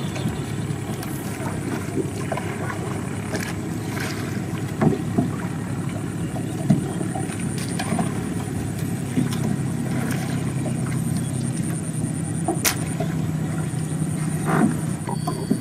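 A boat's engine running steadily, with scattered knocks and clicks over it and one sharp click about three-quarters of the way through.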